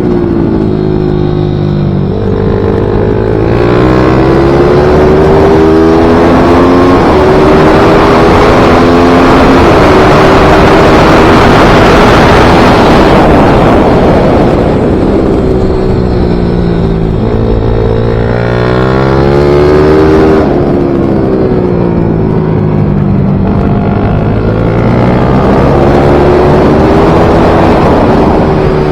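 A small racing motorcycle (MiniGP / pit bike) engine working hard around a circuit. Its pitch climbs under throttle and drops back several times, at about 2 s, 6 s and 20 s in, and it is loudest and roughest in the middle stretch.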